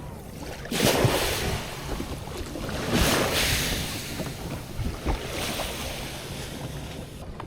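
Wind and water in the open: two rushing swells of noise, about a second and three seconds in, over a steady background.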